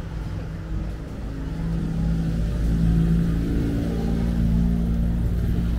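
A car engine running close by with a steady hum and rumble, growing louder about two seconds in.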